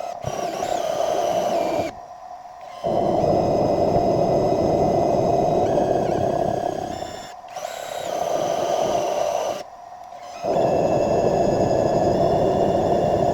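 Metal lathe running and cutting metal: a steady noisy drone with a high, thin whine over it. It breaks off sharply about two seconds in, briefly past the middle, and again at about ten seconds, then resumes each time.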